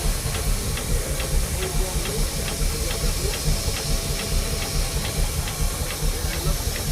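Steam engine running with a steady hiss over a low rumble, and a light regular ticking about three to four times a second.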